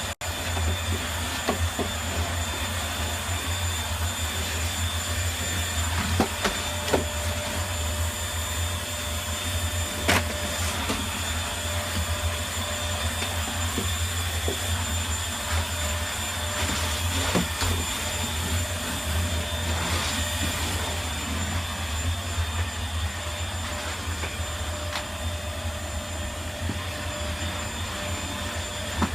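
Vacuum cleaner running steadily, with a low hum and a high whine, and occasional short clicks and knocks as it picks up debris or bumps against things.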